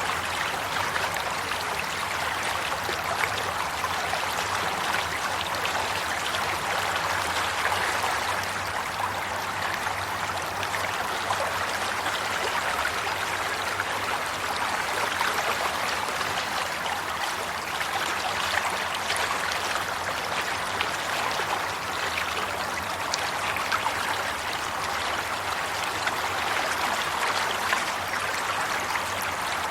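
Flowing water, a steady stream or brook running and splashing, with small splashes flickering through.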